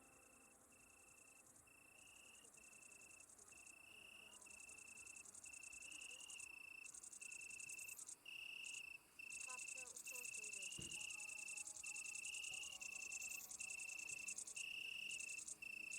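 Faint insect song, typical of crickets at dusk: a steady high chirp repeating a little faster than once a second, over a higher, rapid buzzing trill that grows louder about four seconds in.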